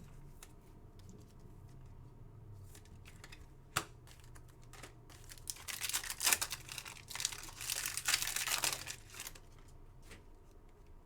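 A trading card pack wrapper being handled and torn open, crinkling in a run of bursts over several seconds, after a single sharp click.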